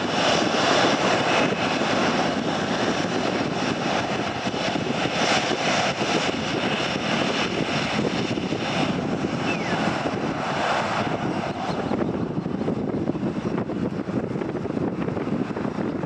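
Jet airliner engines: a loud, steady rushing roar with a faint high whine over it, easing off somewhat after about eleven seconds.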